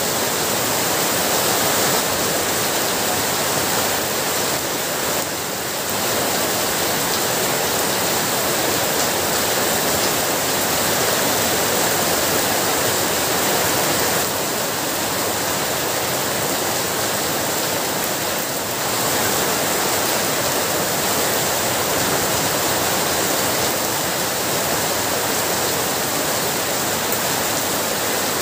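Heavy rain falling, a steady dense hiss with two brief small dips in loudness.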